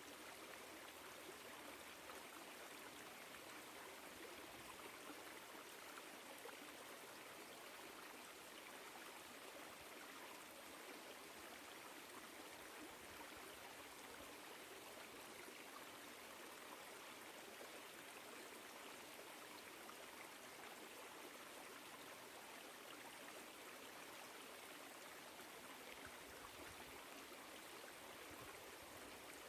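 Woodland stream flowing steadily: a faint, even rush of running water.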